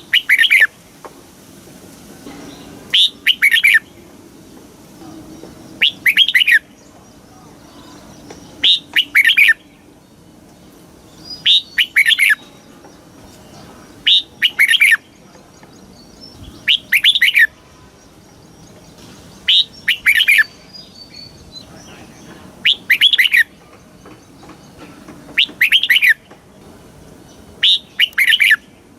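Red-whiskered bulbul singing a short, repeated song phrase about every three seconds.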